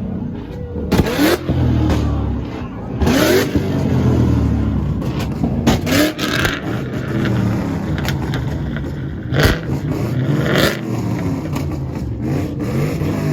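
Car engine tuned for two-step launch control revved up and down again and again, with sharp exhaust pops and bangs, about half a dozen of them, scattered through the revving.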